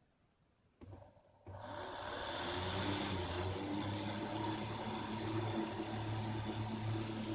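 Homemade table fan driven by a 12 V 775 DC motor with a bus fan blade, starting up about a second and a half in and then running steadily with a low hum and a high whine.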